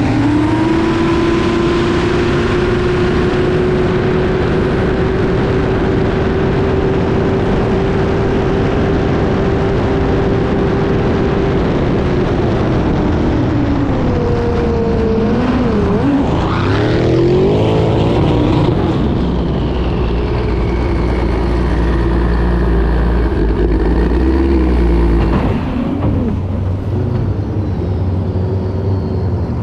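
Turbocharged racing powerboat engine running flat out, heard onboard: a loud, steady high engine note holds, then about twelve seconds in it drops and swings up and down in pitch over and over before settling lower near the end.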